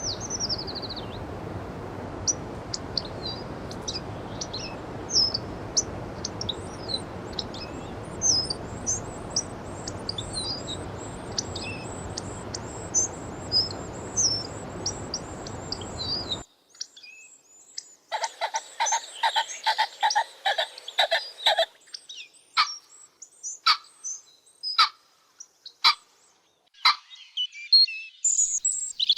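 Birds chirping: many short, high calls over a steady background hiss. About halfway through, the hiss cuts off abruptly and a quick run of repeated calls follows, then scattered single chirps.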